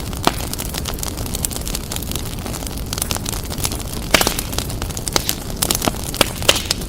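Wood fire burning in a fireplace: a steady low rumble with irregular sharp crackles and pops. The loudest pops come about four seconds in and again near the end.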